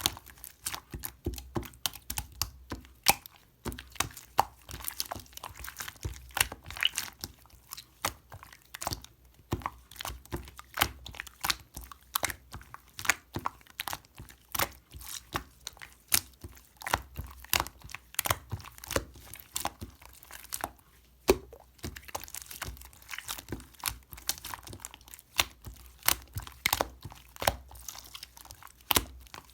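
Clear slime being squeezed, pressed and stretched by hand, giving a dense run of sharp, irregular clicks and pops as air pockets in the slime burst.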